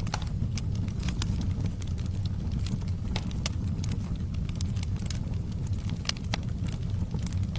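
Log fire burning with a steady low rumble and irregular sharp crackles and pops.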